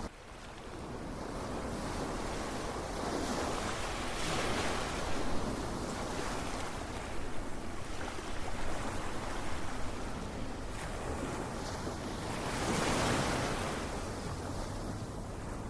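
Ocean surf: waves washing in and drawing back as a steady hiss, swelling about four seconds in and again, more strongly, near the end.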